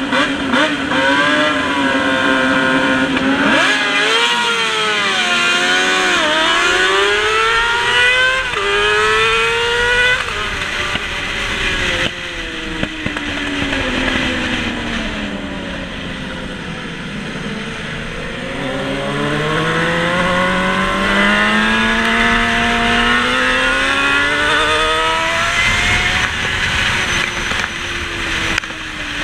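Racing motorcycle engine heard from onboard the bike, held at steady revs at first, then climbing through the gears with quick breaks at each upshift. Around the middle the revs fall for several seconds as the bike slows into a corner, then climb again on the way out.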